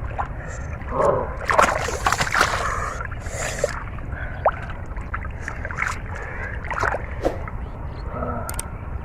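Shallow muddy water splashing and sloshing in irregular bursts, as hands grope through it for fish, over a steady low rumble.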